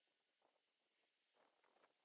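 Near silence, with a few very faint scrapes and clicks about one and a half seconds in.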